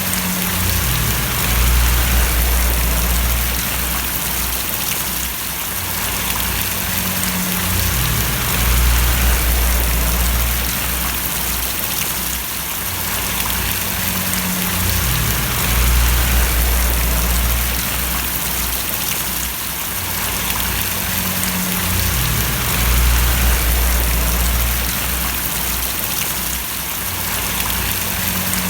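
Steady rain splashing, an even hiss of drops. Underneath, a low rumble swells and fades about every seven seconds.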